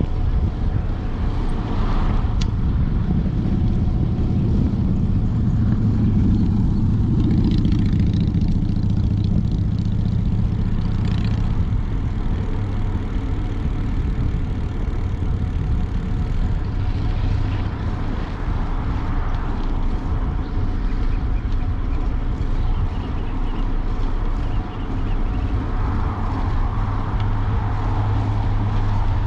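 Steady low rumble of wind buffeting the microphone of a moving bicycle camera.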